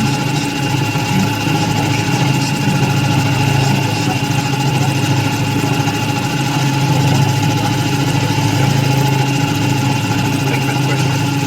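Steady running hum of a machine tool, with several constant pitches over a noisy background and no change in speed.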